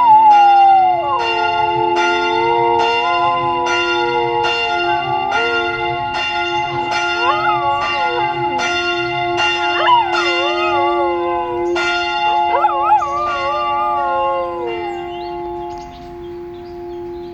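A dog howling along with a ringing church bell. The howl rises and falls in long wavering notes over the bell's steady strokes, about three every two seconds. The strokes stop about twelve seconds in, and the howl trails off a few seconds later as the bell's ring dies away.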